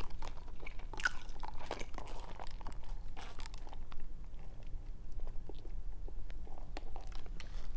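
Close-miked chewing and biting of food, with many small irregular crunchy clicks and mouth sounds.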